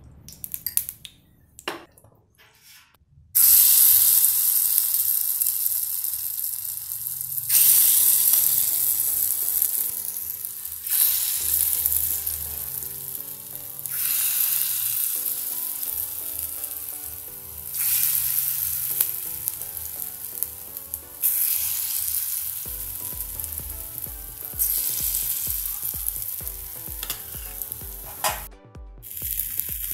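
Paddu batter sizzling in hot oil in a cast-iron paddu pan as it is spooned into the wells one at a time. The sizzle starts suddenly about three seconds in and swells afresh every three or four seconds as each new spoonful goes in.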